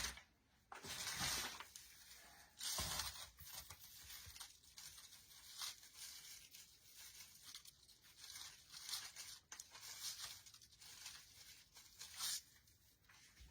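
Faint, intermittent rustling and crinkling of the artificial pine swag and its decorations being handled and cut, in short scattered bursts with a few small clicks.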